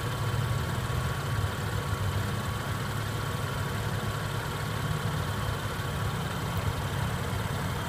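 A vehicle engine idling steadily, heard as a constant low hum.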